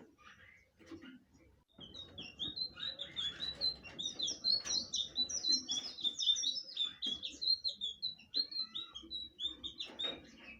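Blue flycatcher (sikatan biru) singing: a fast, unbroken run of high chirping and warbling notes. It starts about two seconds in and stops near the end.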